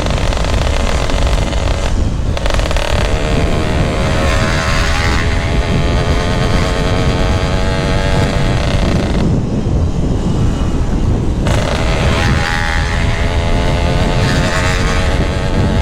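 Yamaha RX-King two-stroke single-cylinder engine breathing through a GRT18 K26 aftermarket exhaust, revving up and down as the bike is ridden. The engine note falls away briefly about two seconds in and again for a couple of seconds past the middle, over a heavy rumble of wind on the microphone.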